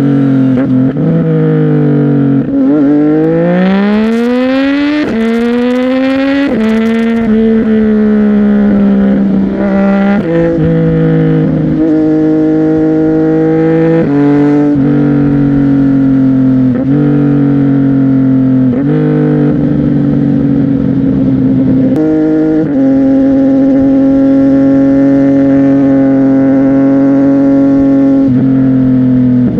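CFMOTO 675NK's three-cylinder engine through a titanium aftermarket exhaust, pulling hard with a steeply rising pitch about three seconds in, then running through gear changes with drops in pitch, and holding steady revs near the end.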